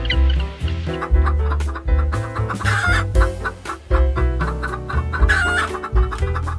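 Chickens clucking, with two louder calls about three and five seconds in, over background music with a heavy bass line.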